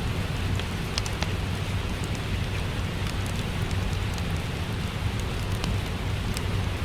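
Steady rain with a low rumble underneath, and scattered sharp crackles of a wood fire.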